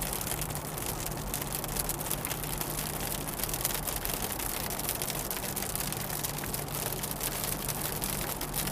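Heavy rain hitting a moving car, a dense spray of countless small drop ticks over a steady low engine and road hum.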